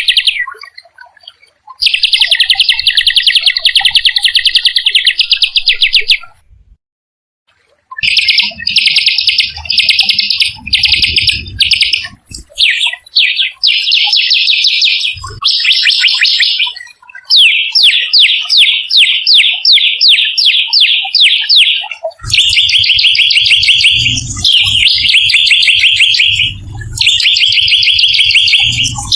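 A small songbird singing fast, rattling trills in phrases of a few seconds, with a pause of under two seconds about six seconds in. A low rumble sits under the song during the last several seconds.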